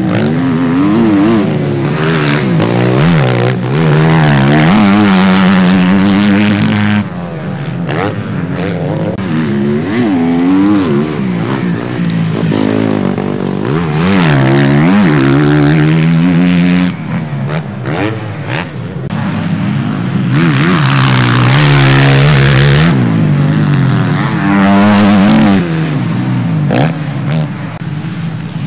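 Motocross bikes racing on the track, their engines revving up and down again and again as the riders work the throttle and shift through corners and jumps. Several loud stretches come as bikes pass close.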